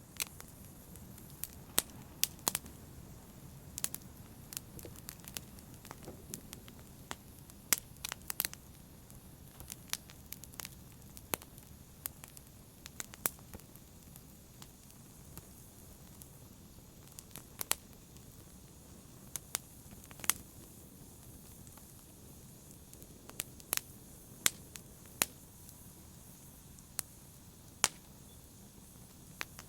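Wood fire crackling in a fireplace: sharp, irregular pops and snaps, a few a second, over a low steady rush of the flames.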